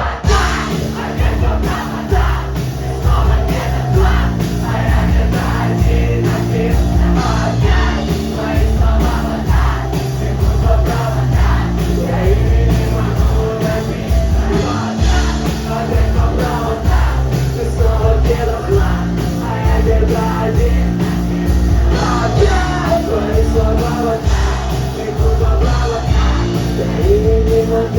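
Rock band playing loud between vocal lines, with drums, bass and distorted electric guitars.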